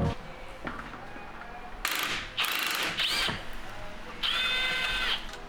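Mechanical metal-on-metal working sounds in three short bursts with squeaky, ringing tones, like a hand ratchet or tool working on steel suspension parts.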